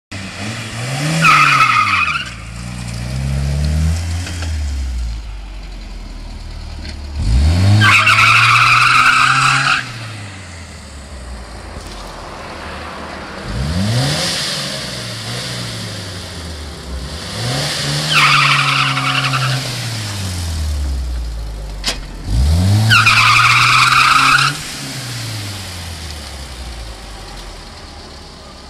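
Ford Cortina's engine revved five times from idle. Each rev climbs quickly, holds high for a moment or up to about two seconds, then drops back to a steady idle.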